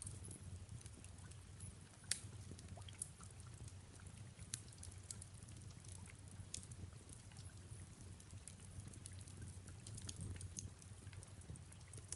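Fireplace crackling: irregular small pops and snaps, one sharper than the rest about two seconds in. Under them runs a soft, steady rain hiss with a low rumble.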